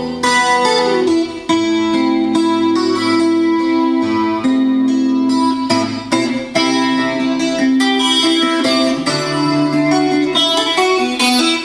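Guitar-led music playing loud through a motorcycle's custom stereo of Polk Audio speakers driven by a Rockford Fosgate amplifier, picked up by a GoPro microphone.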